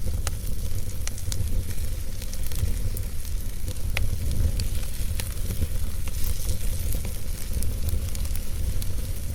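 Wood fire burning in a fireplace, with a steady low rumble of the flames and scattered sharp crackles and pops.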